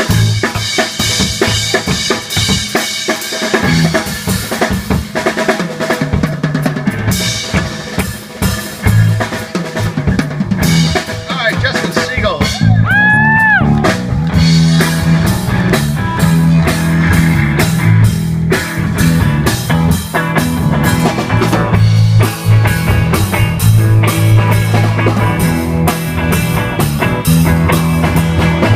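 Music driven by a drum kit playing busily, with kick, snare and rimshot strikes over sustained low notes. A short pitched note rises and falls about halfway through.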